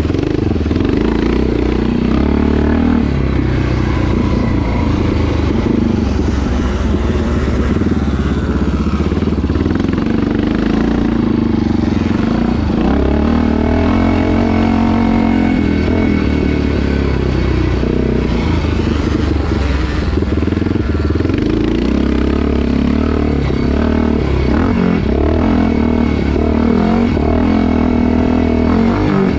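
Vintage motocross motorcycle engine running hard, its revs rising and falling without a break.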